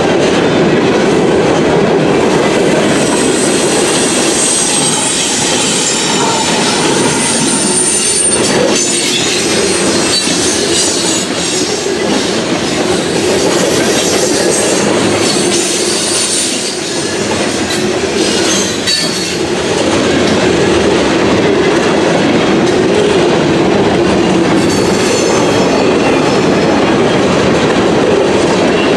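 Freight cars of a Norfolk Southern train rolling past at steady speed, wheels clacking over the rail joints. Steel wheels give a high squeal against the rail several times.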